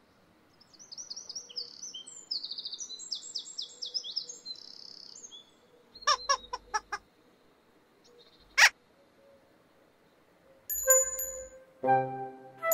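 Birdsong: quick, high chirps and trills for about five seconds. Then a quick run of five sharp clicks about six seconds in, and one louder click a couple of seconds later. Near the end, tinkling chime-like musical notes begin.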